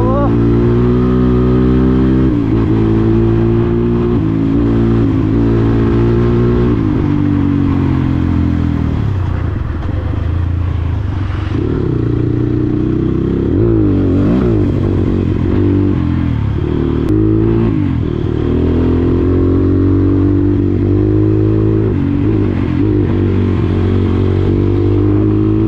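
Motorcycle engine running under way, mostly at a steady pitch, with the revs dropping and picking up again several times in the middle.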